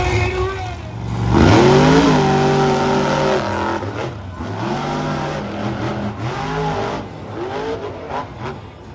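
Monster truck engine revving hard about a second and a half in, then running on with its pitch rising and falling as the throttle is worked.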